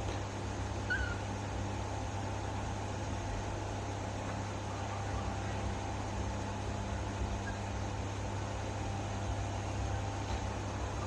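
A steady low machine hum over an even background hiss, with one brief faint high squeak about a second in, from a baby monkey.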